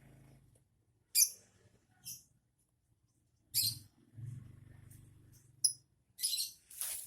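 A pet bird making short, sharp, scratchy high-pitched chirps, about six spread out over several seconds.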